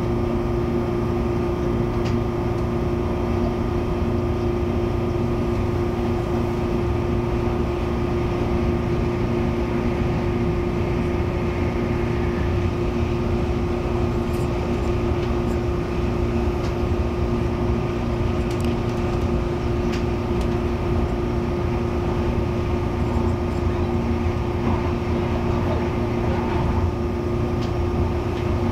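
Steady hum and rumble inside a carriage of an MTR Airport Express CAF train, with two constant low tones that do not rise or fall.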